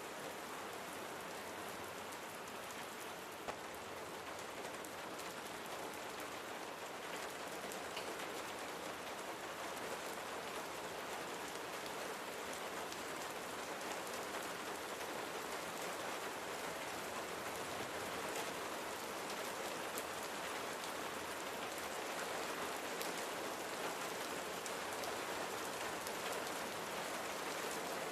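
Steady rain falling, an even hiss with scattered individual drop ticks, growing slightly louder toward the end.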